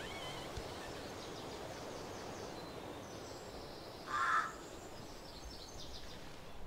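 Steady outdoor background noise with faint, repeated high chirping, and one short, louder bird call about four seconds in.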